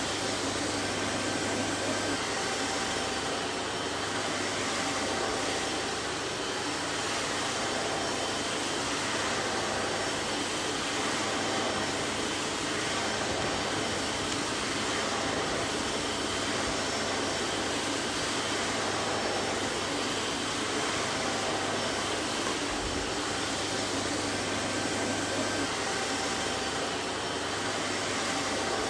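Vacuum cleaner running steadily: an even whooshing motor noise with a faint steady hum, unchanging in level.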